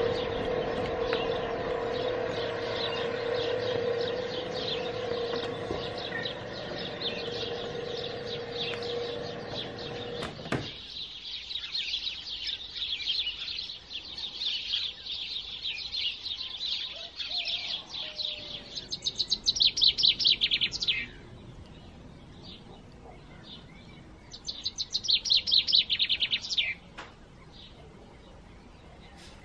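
Songbirds singing in a dense chorus of chirps, with two loud, fast trills of about two seconds each in the second half. For the first ten seconds a steady hum with one held tone lies under the birdsong and cuts off suddenly.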